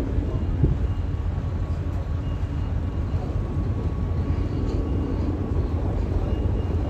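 Tour boat's engine running with a steady low drone, heard from aboard.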